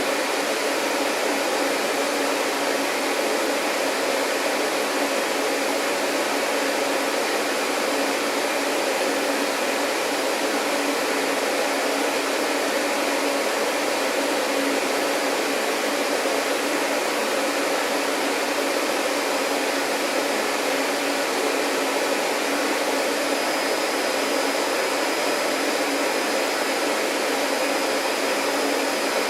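Vacuum cleaner running steadily: an even rushing hum of the motor and airflow, with a faint thin high whine joining in a little past the middle.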